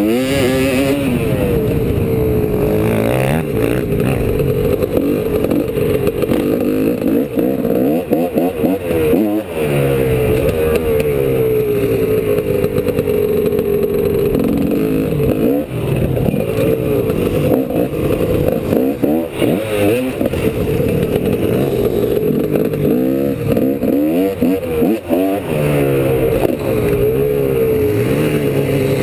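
2003 GasGas EC300's 300 cc two-stroke single-cylinder engine under riding load, revving up and dropping back over and over as the throttle is opened and closed through the gears.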